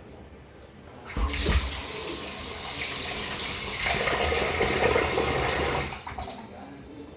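Water running from a tap into a sink. It comes on suddenly about a second in, gets louder around four seconds, and stops at about six seconds.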